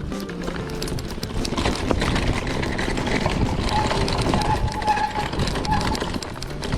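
Mountain bike ridden fast down a dirt trail: tyres rolling and skidding on the dirt, with the chain and frame rattling and clicking over bumps. A brief high tone rings out about four seconds in.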